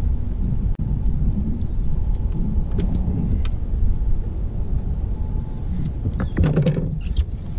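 Steady low rumble of a fishing boat running on the river, with a few knocks and handling noises near the end.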